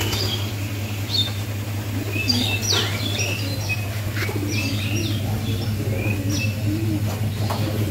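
Birds chirping in short, scattered calls, one of them falling in pitch about three seconds in, over a steady low hum.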